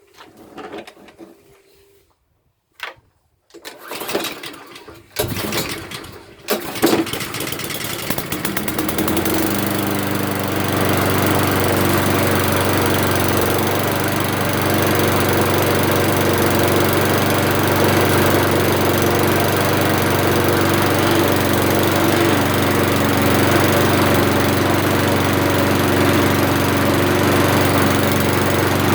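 Old petrol lawnmower engine starting: a few short bursts, then it catches about six seconds in, runs unevenly for a moment and settles into a steady run.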